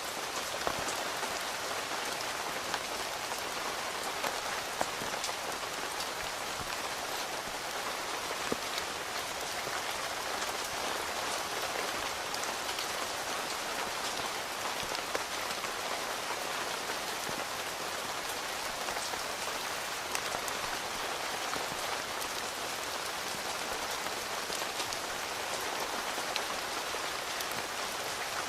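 Steady rain falling on a tent, heard from inside, an even hiss with many single drops ticking sharply on top.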